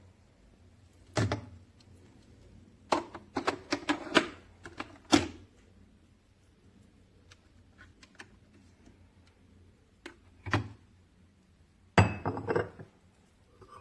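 Hard plastic clicks and knocks from the capsule coffee machine being handled: single knocks and a quick cluster of clicks, with quiet gaps between.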